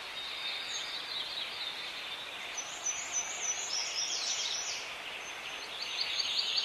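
Songbirds chirping and trilling over a faint steady hiss, with quick runs of high chirps about midway and again near the end.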